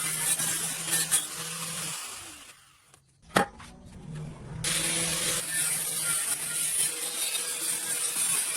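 Arc welding: a steady hissing crackle from the arc. It breaks off for about two seconds, with one sharp click in the gap, then starts again as the next bead is struck.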